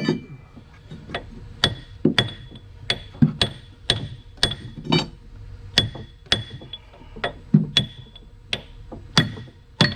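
Hammer striking steel over and over, about two blows a second, each with a short metallic ring: tapping at stuck keys to drive them out of the door-opener cylinder.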